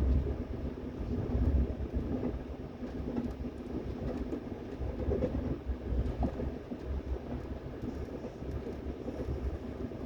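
Train running on the rails: a steady low rumble with irregular rattling.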